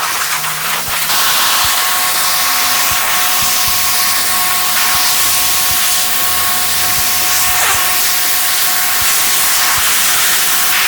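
Steady loud hissing spray, over background music with a shifting bass line.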